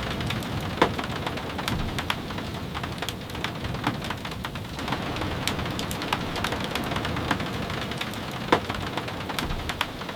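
Steady rain with frequent sharp, irregular taps of drops and a low rumble underneath.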